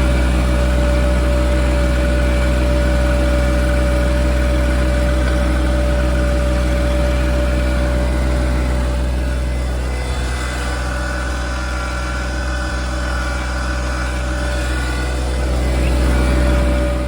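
John Deere 2025R compact tractor's three-cylinder diesel engine running steadily while driving, with a steady whine above the engine note. The sound eases slightly about ten seconds in and builds again near the end.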